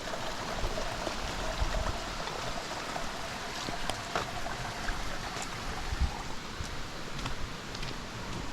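Mountain stream running, a steady even rush of water, with a few faint scattered clicks over it.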